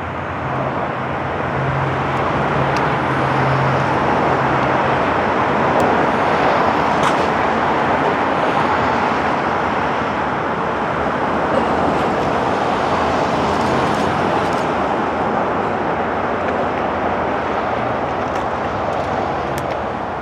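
Freight train rolling past: a steady rush of steel wheels on rail that builds over the first few seconds and then holds, with a low hum early on and a few scattered clicks.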